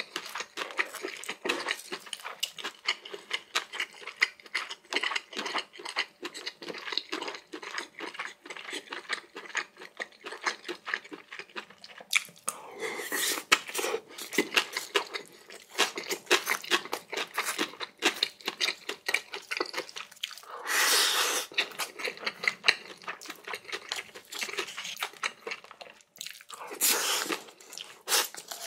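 Close-miked eating sounds of a person chewing food: a dense run of quick wet clicks, with three louder stretches of a second or two each.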